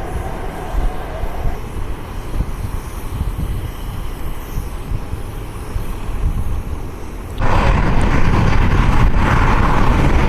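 Airport ambience: a steady low rumble of jet engines and wind, which jumps abruptly to a louder rushing noise about seven seconds in and stays there.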